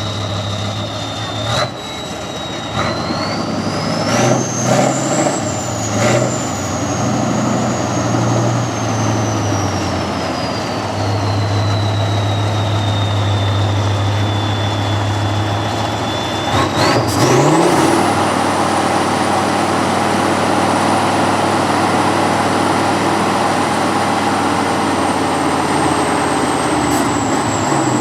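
Heavy trial truck's diesel engine working under load, with a high whistle that climbs and sinks slowly as the revs change and then jumps sharply upward as the engine revs hard. A few sharp knocks sound in the first few seconds and again as the revs jump.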